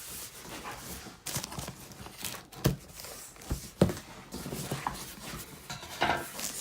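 A large cardboard shipping box being worked open by hand: irregular scraping and rustling with a few sharp knocks, the two loudest about two and a half and four seconds in.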